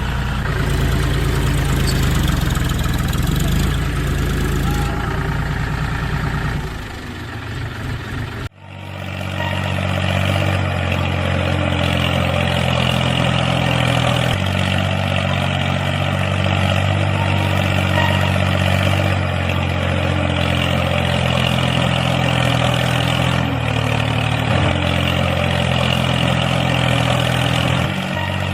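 Engine running steadily at idle, with an abrupt cut about eight and a half seconds in, after which it carries on at a slightly different pitch.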